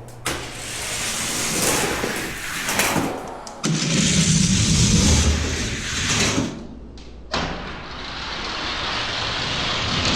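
Die-cast toy cars running down a plastic drag-racing track: a steady rolling rattle with a sharp knock about three and a half seconds in, a louder rumbling stretch after it, and two clicks near the middle.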